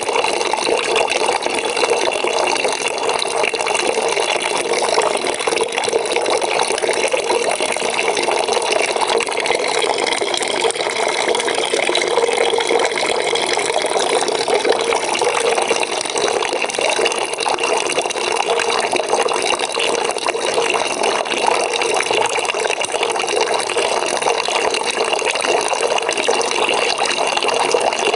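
Water from a tap running steadily into a bucket, a continuous even splashing.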